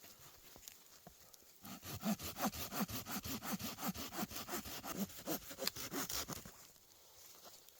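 Hand saw cutting through wood with quick, even back-and-forth strokes, starting about a second and a half in and stopping near the end.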